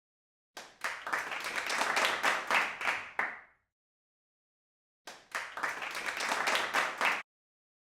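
Clapping in two bursts, the first about three seconds long and the second about two, each cutting off sharply.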